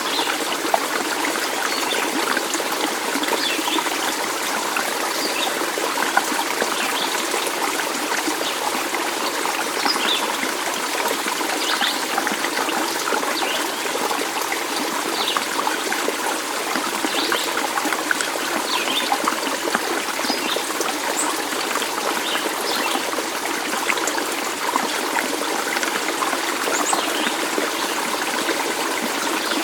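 A stream of water running and trickling steadily, with brief high-pitched notes scattered over it.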